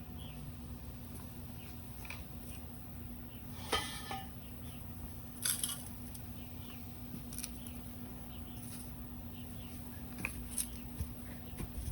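A few scattered metal clinks and knocks as steel pieces are handled, over a steady low hum.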